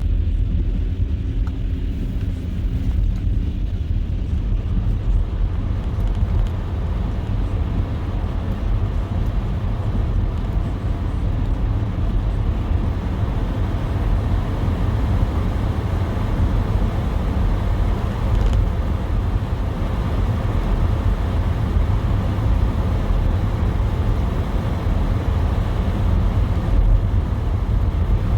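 A car driving on a snowy road: a steady low rumble of engine and tyre noise that holds even throughout.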